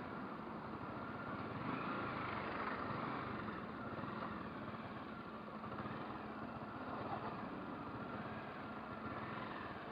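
Motorcycle engine running steadily under a constant rushing noise.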